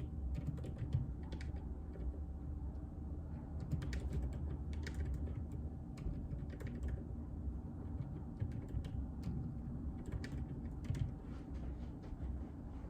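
Steady, irregular typing on a JJK84 mechanical keyboard with Outemu Silent Peach linear switches: soft, muted key presses, many a second, over a low steady hum.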